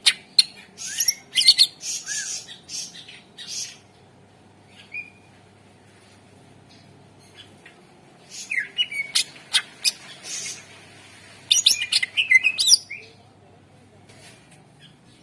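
Greater green leafbird (cucak ijo) in full song: two bouts of loud, rapid, sharp chirps and trills with a pause of a few seconds between them.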